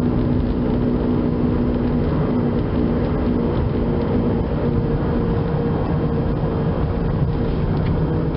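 A 2004 Chevrolet Impala driving, with a steady growl from a failing driver's-side wheel bearing under the road and tyre noise.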